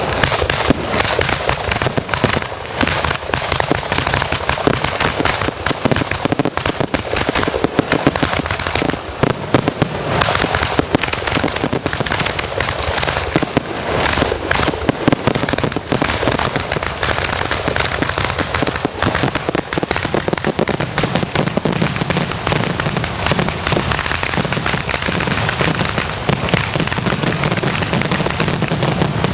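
Aerial fireworks display going off in a dense, continuous barrage of bangs and crackles, with no let-up.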